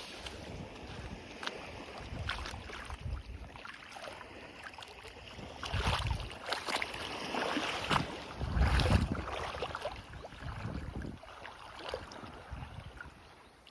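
Waves washing on a beach, swelling to louder surges about six seconds in and again around nine seconds, with wind buffeting the microphone as a gusty low rumble.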